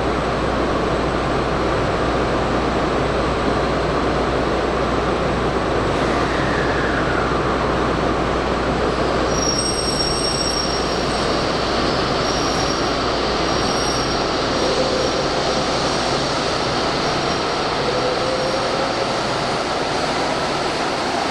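Steady noise of an N700S Shinkansen train at a station platform, with faint high tones coming and going in the second half.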